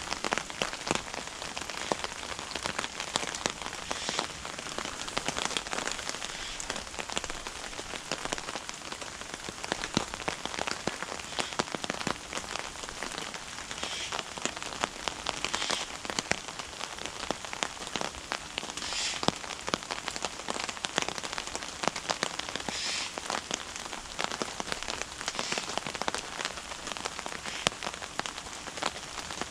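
Steady rain falling, with many close individual drop hits, a dense irregular ticking over an even hiss.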